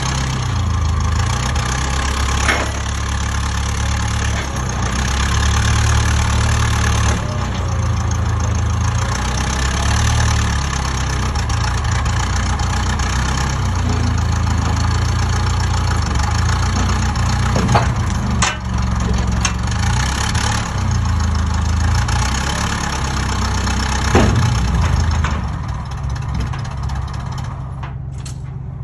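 An engine running, its note shifting up and down, with a few sharp metallic knocks.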